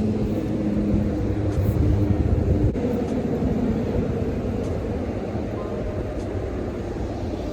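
Traffic on a busy highway: a vehicle engine passes with a steady low hum, loudest in the first couple of seconds and then fading, over a continuous road rumble.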